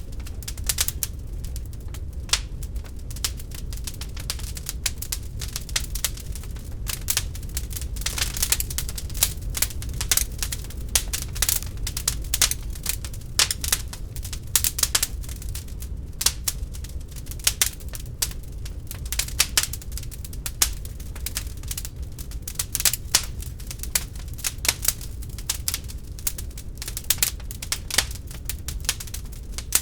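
Wood fire burning in a fireplace, crackling with many irregular sharp pops and snaps, sometimes in quick clusters, over a low steady rumble.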